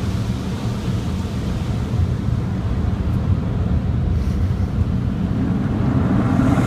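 Automatic car wash equipment working over the car, heard from inside the cabin as a steady low rumble.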